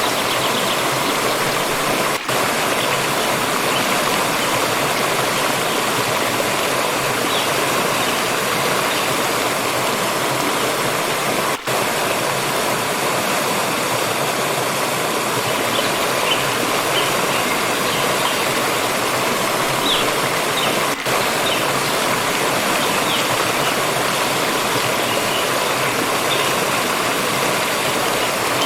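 Water stream flowing with a steady rushing, broken three times by a momentary dip in level.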